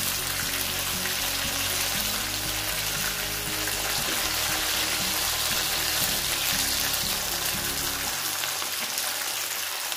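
Batter-coated chicken pieces frying in hot oil in a nonstick pan: a steady sizzle of bubbling oil as the pieces are turned. Soft background music plays underneath and stops about eight seconds in.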